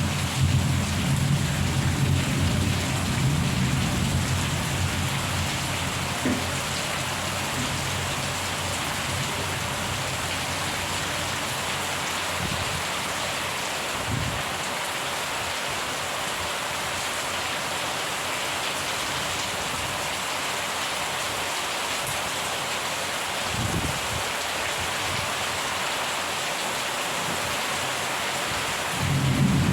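Steady rain falling, with rolling thunder. A long low rumble at the start fades over the first several seconds, two brief rumbles come in the middle, and another rumble builds near the end.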